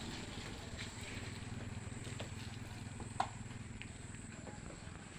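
A small engine running steadily and fading away, with a few light clicks and one sharp click about three seconds in.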